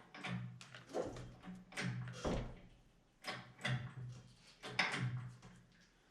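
Engine hoist and its chain raising an engine out of a car's engine bay: irregular metallic creaks and knocks, about one or two a second.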